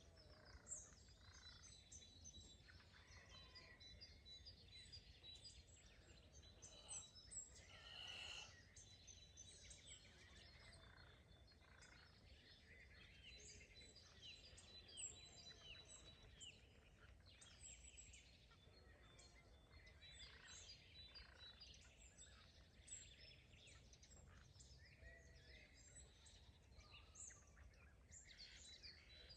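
Faint, busy chorus of small songbirds chirping and trilling over a low steady rumble, with one short, louder call about eight seconds in that may be a village chicken.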